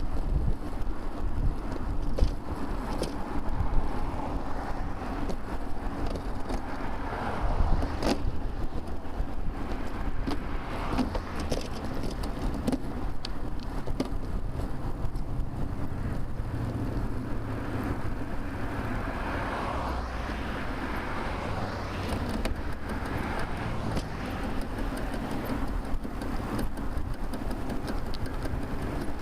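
Motor traffic on a busy multi-lane road heard from a camera on a moving bicycle: a steady rumble of tyres and engines, with cars swelling past about a quarter of the way in and again past the middle, and scattered small clicks and knocks.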